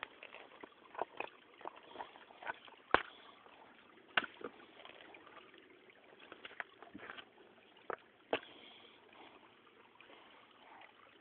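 Small shallow stream trickling, with irregular sharp splashes and knocks in the water, the loudest about three and four seconds in.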